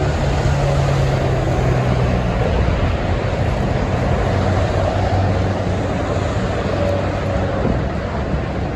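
Highway traffic with trucks passing: a steady wash of tyre and engine noise with a low engine drone that shifts slowly in pitch.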